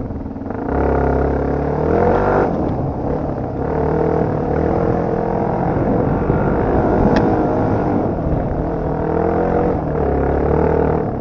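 Dirt bike engine running hard under load, its revs rising and falling as it accelerates and eases off, with a sharp click about seven seconds in.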